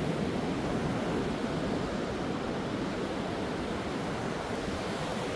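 Ocean surf breaking on a beach in heavy rain, an even, steady rushing wash.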